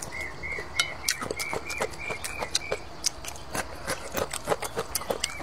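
Close-up chewing of noodles and sausage: wet mouth clicks and lip smacks at an irregular pace. Over the first half, a short high chirp repeats about three times a second.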